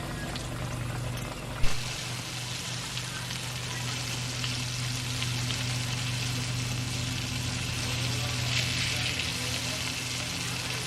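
Sliced squash frying in hot grease in a pan, a steady sizzle. A sharp knock about a second and a half in, after which the sizzle gets louder and brighter, with a steady low hum underneath.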